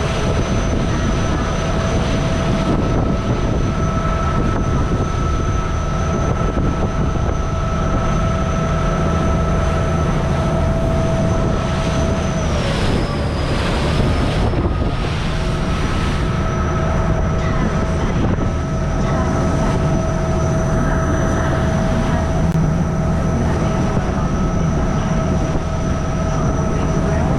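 A river boat's engine running steadily, with a loud low rumble and a high whine. The whine dips slightly in pitch about halfway through, then comes back up as the engine picks up again.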